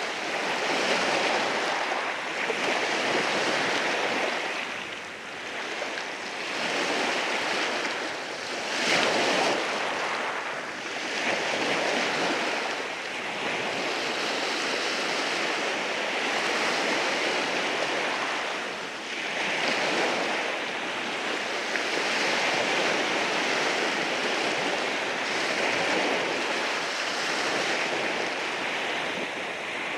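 Waves breaking and washing over rocks on the shore, a continuous rushing surf that swells and eases every few seconds, with a sharper surge about nine seconds in.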